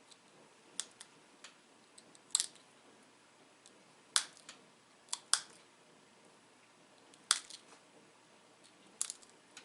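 Sharp, irregular clicks and snaps of tiny flakes popping off a dacite bird point as side notches are pressure-flaked into it, about a dozen spread through the stretch.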